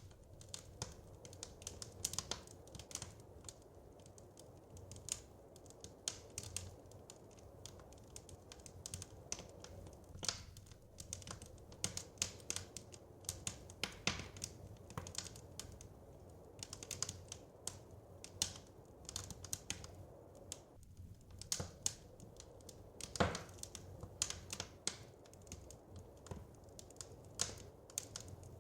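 Wood fire crackling, with irregular sharp pops and snaps over a soft, steady low rumble.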